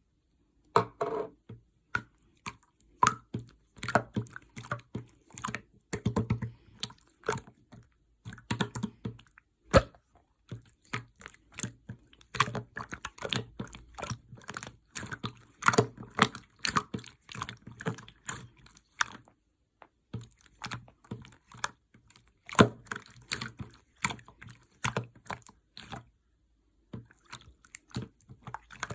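Clear slime being squeezed and pressed by hand, giving rapid irregular sticky clicks and pops, with two short pauses in the second half.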